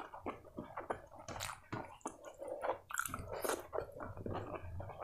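Close-miked chewing of soft rice and chicken curry: an irregular run of wet mouth clicks and smacks.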